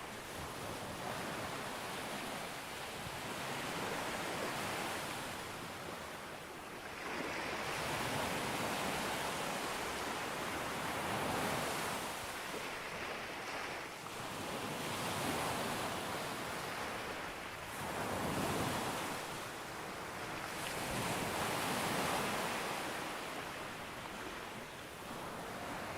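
Ocean waves breaking on a beach, the surf swelling and falling back in a slow rolling rhythm of a wave every three to four seconds.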